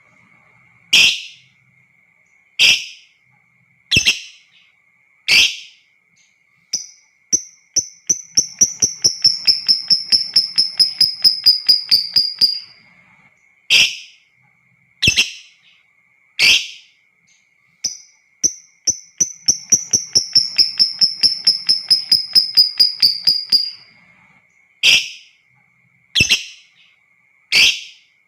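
Lovebird calling: single sharp, shrill calls about every second and a half. Twice these break into a long, rapid chattering run of many quick notes lasting about five seconds, the 'ngekek panjang' trill. A faint steady high-pitched tone sits underneath.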